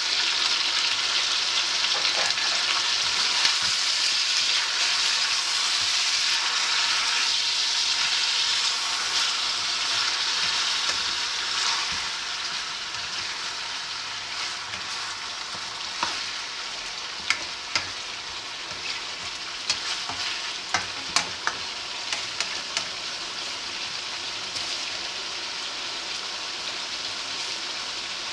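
Chicken pieces frying and sizzling in a hot wok just after soy sauce and lemon juice are poured in, loudest for the first dozen seconds and then easing off. Midway through, a spatula knocks and scrapes against the wok several times as the pieces are stir-fried.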